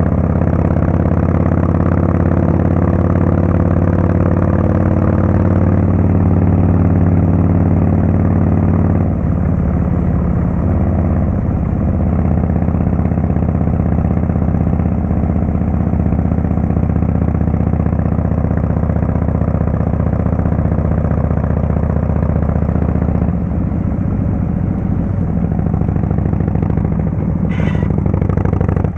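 Harley-Davidson Fatboy S's Screamin' Eagle Twin Cam 110 V-twin running through a Kesstech valve exhaust system. The engine note holds steady, then changes about nine seconds in and again later on.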